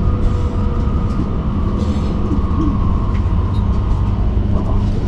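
Electric bus cabin in motion: a steady low road and tyre rumble, with the steady whine of the electric drive held over it.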